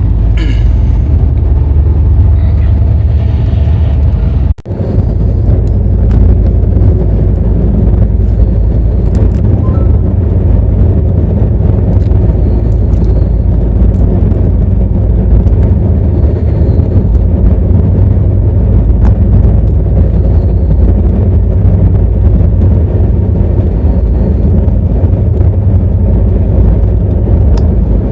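Passenger train running, a steady low rumble that breaks off for a moment about four and a half seconds in.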